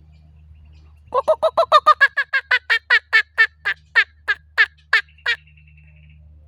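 Kookaburra giving its laughing call: a run of about twenty loud, rapid notes starting about a second in, rising in pitch at first, then spacing out and stopping after about four seconds.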